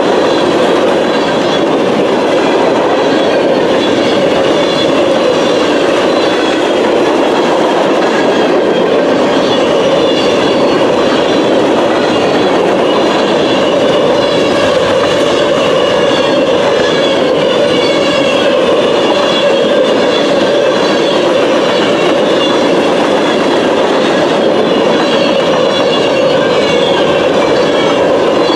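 Freight train cars rolling past: a steady rumble and rattle of steel wheels on the rail with clickety-clack, and a wavering high-pitched wheel squeal.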